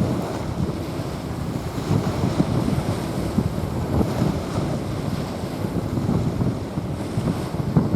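Small waves washing onto a sandy beach, with wind buffeting the microphone in uneven low rumbles.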